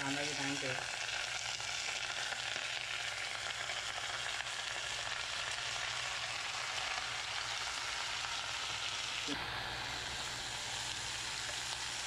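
Chopped mixed vegetables and onions sizzling steadily in hot oil in a steel pressure-cooker pan.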